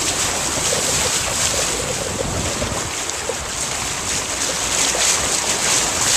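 Wind buffeting the microphone over the steady rush of sea water along a sailboat's hull.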